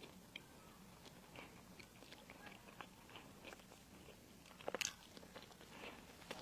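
Close-miked eating sounds: quiet chewing with small crunches, and a louder crisp bite about three quarters of the way through.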